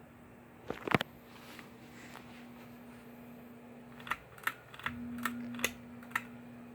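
Ceiling fan motor giving a steady low hum, with sharp clicks: a couple about a second in, then a run of about six clicks. During that run the hum drops out briefly and returns stronger.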